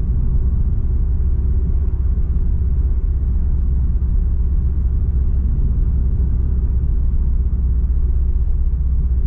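Turbocharged flat-four of a tuned Subaru Impreza STI with a Milltek exhaust, running steadily as a low drone with no revving.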